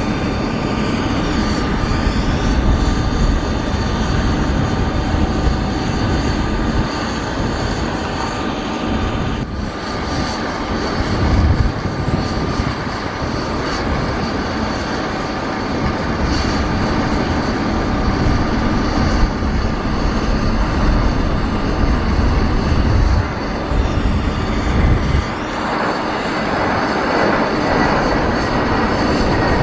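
Boeing 737-800 jet engines (CFM56) running, a steady high whine over an uneven low rumble.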